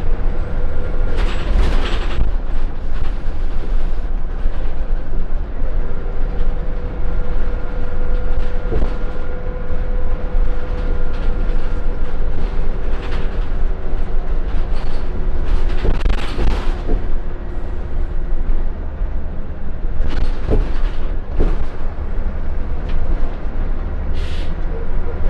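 Scania L94UB Wright Solar single-deck bus under way, heard from inside the saloon: a steady low engine and road rumble with a whine that drops in pitch about halfway through, and the body rattling and knocking over the road, most sharply near the start and in the second half.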